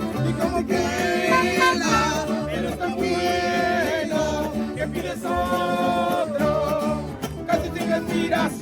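Mariachi band performing: a singer holding long notes over guitars and a repeating bass line.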